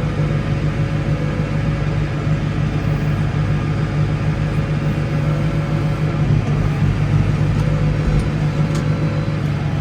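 Case 115U tractor engine running steadily, a constant low hum with no change in speed.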